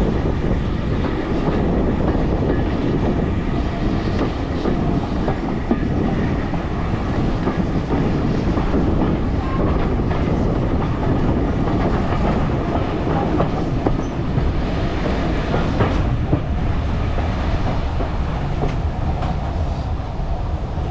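A train running along the line: a steady rumble with wheels clattering over the rail joints.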